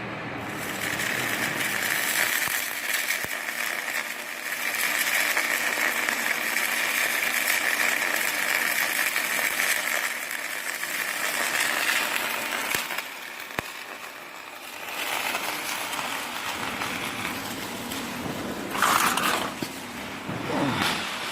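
Electric arc welding: the arc's steady crackle and hiss, striking about half a second in. It stops for a couple of seconds in the middle, then starts again, with a brief louder burst near the end.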